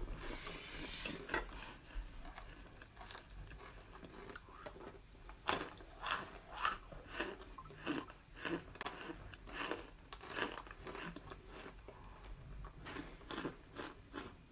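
Chunks of dried cornstarch being bitten and chewed close to the microphone: a run of crisp crunches, about one or two a second.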